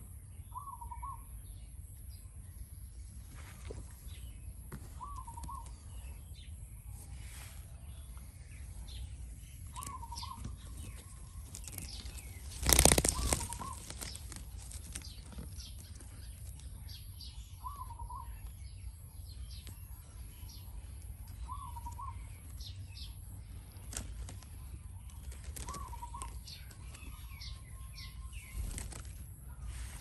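A short bird call repeating about every four seconds over a steady low rumble, with one loud rustling burst, like wings flapping, about a second long near the middle.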